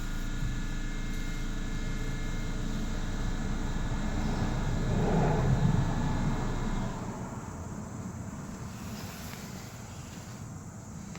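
A steady engine-like rumble with a faint hum. It swells in the middle and stops suddenly about seven seconds in.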